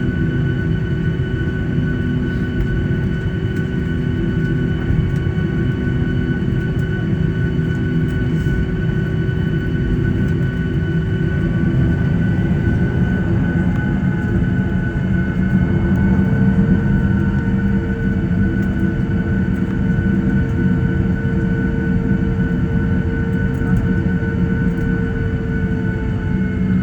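Boeing 737-800 engines running, heard from inside the cabin: a steady low rumble with several whining tones. About halfway through, some of the tones begin to slowly shift in pitch.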